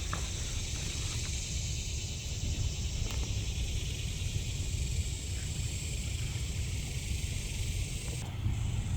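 Outdoor ambience: a steady high hiss over a low rumble.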